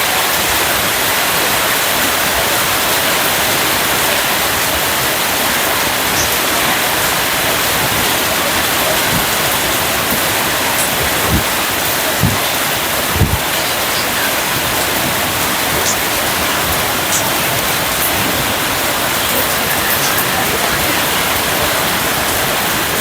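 Steady heavy rain with an even, loud hiss, and a few scattered louder drips or thumps about halfway through.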